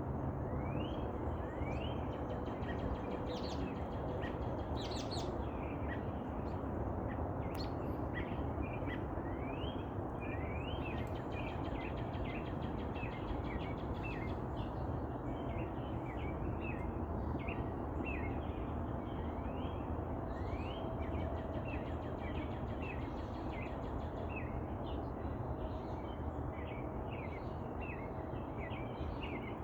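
Birds chirping, many short rising chirps repeating throughout, over a steady background rush of outdoor noise.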